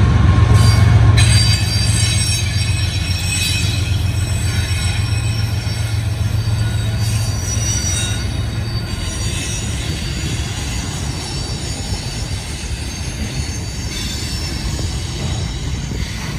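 Long Norfolk Southern freight train rolling past, its wheels squealing on the rail in several high steady tones over a heavy low rumble. The rumble eases off after the first couple of seconds.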